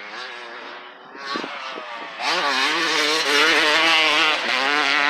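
Motocross dirt bike engine revving up and down as the rider works the throttle around the track, getting much louder about two seconds in.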